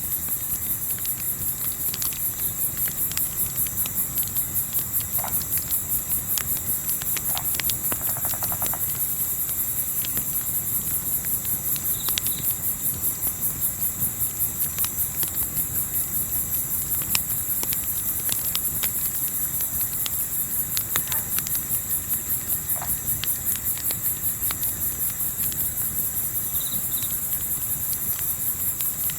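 A chorus of crickets chirping, high-pitched, with a rapid, even pulse. Scattered sharp crackles of a wood fire sound underneath.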